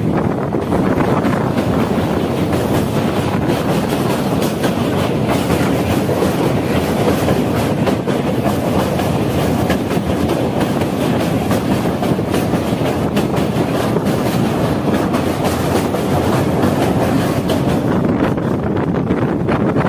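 Express passenger train running at speed, its coach wheels rumbling and clicking steadily over the rails, heard loud from an open coach doorway. For most of it the train is crossing a steel truss river bridge.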